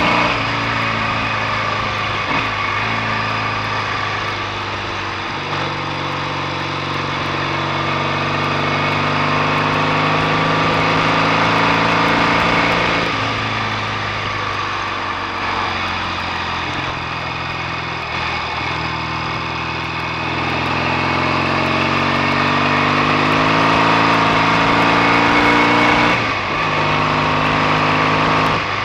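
BSA A65 650 cc parallel-twin motorcycle engine under way on the road. The revs climb and drop back sharply several times as it changes gear.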